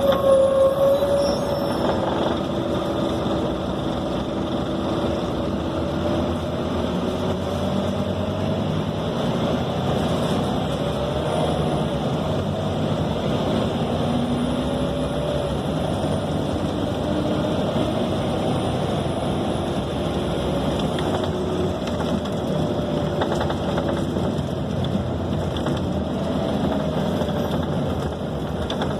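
Cabin sound of a Scania K270 city bus (Caio Millennium II) under way: the engine running with its pitch drifting up and down as the bus speeds up and slows, over steady road and body noise.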